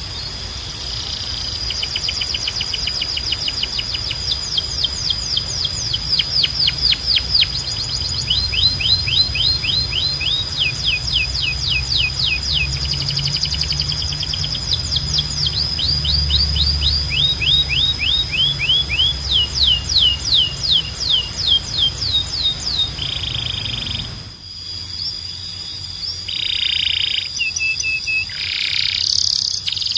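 Domestic canary singing: long rolling trills of rapid, evenly repeated down-slurred notes, switching from one trill to the next at different speeds, over a low background hum. About three quarters of the way through the song breaks off and resumes with shorter, different phrases.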